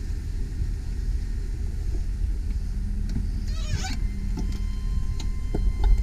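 The 2001 GMC Sierra 3500 HD's 8.1-liter V8 running at a steady low idle, with a short warbling squeak about four seconds in.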